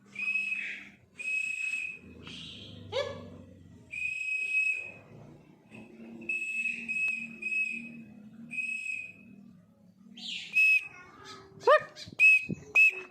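Repeated whistling to call a pet bird home: short, steady, high notes, one at a time with pauses between, and a few louder short rising calls near the end.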